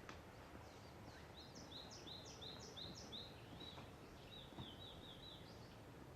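Faint songbird singing over a steady low outdoor hiss: a run of about eight quick, high, down-slurred notes, then a faster string of shorter notes, and a few more near the end.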